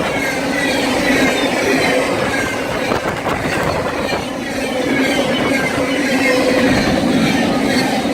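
BNSF freight train rolling past, its steel wheels running on the rails in a steady rumble with a low hum, and faint high squeals sliding down in pitch now and then.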